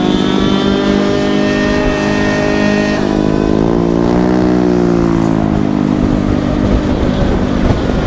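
Small gas scooter engines running in a group ride. One engine's pitch climbs steadily over the first three seconds, then an engine revs up and eases back down about four to five seconds in.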